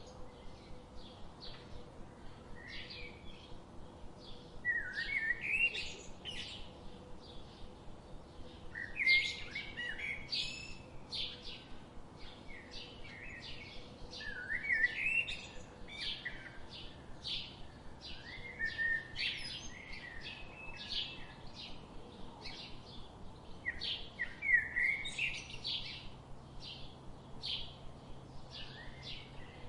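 Songbirds singing: a short rising song phrase comes every four to five seconds, with a steady run of quick, high chirps in between.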